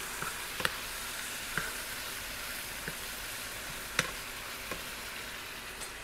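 Chicken pieces sizzling and frying in hot oil with onions and garlic, a steady hiss, as they are browned for adobo. A spatula stirs them and knocks against the pan a few times, the sharpest knock about four seconds in.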